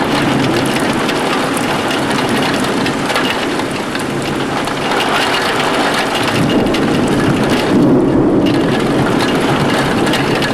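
Heavy thunderstorm rain falling steadily, with many close drop hits on a surface.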